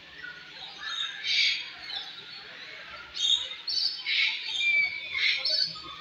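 Birds in an aviary squawking and calling: about four bursts of high calls roughly a second apart, with a short thin whistle-like note near the end.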